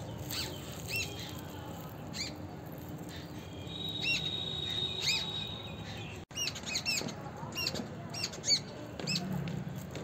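Small birds chirping: short, high chirps at irregular intervals, coming thicker in the second half, with a thin held whistle lasting about two seconds near the middle.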